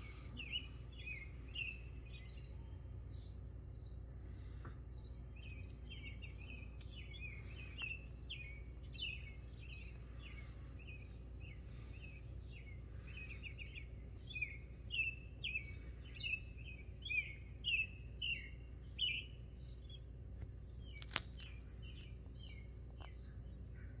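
A bird chirping over and over: short, high chirps that drop in pitch, coming in runs of several a second and busiest in the second half, over a steady low hum. There is one sharp click near the end.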